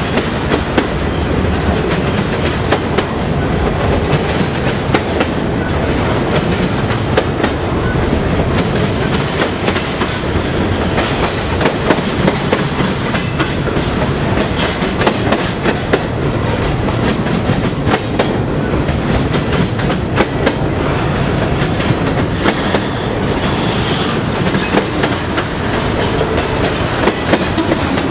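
Double-stack container well cars of an intermodal freight train rolling past, loud and steady: wheels on rail with frequent irregular clicks and clacks.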